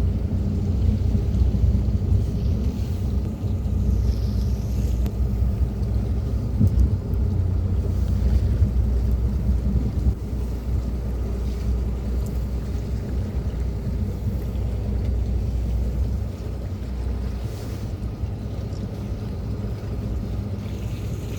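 A tour boat's engine runs with a steady low rumble, with wind buffeting the microphone and water rushing past the hull. The rumble eases slightly about 16 seconds in.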